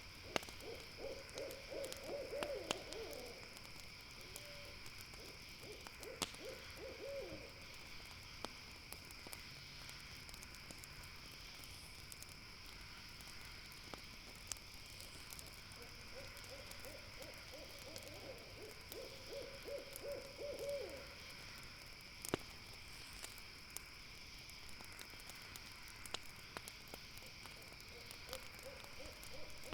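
An owl hooting in runs of quick notes, four times. Under it runs a steady high chorus of night insects, and a campfire gives scattered sharp pops and crackles.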